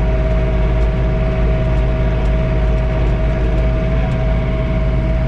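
John Deere 3046R compact tractor's three-cylinder diesel running steadily at full throttle while powering a snowblower, heard from inside the closed cab: a deep drone with a steady high whine over it.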